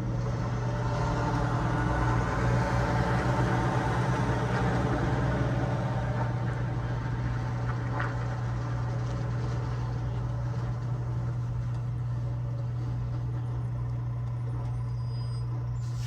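Semi truck engine running with a steady low drone and a haze of engine and road noise, swelling slightly in the first few seconds and then holding even.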